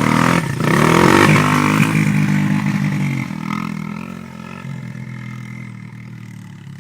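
Motocross dirt bike engine revving up and down through the gears as it pulls away, growing steadily fainter over the last few seconds.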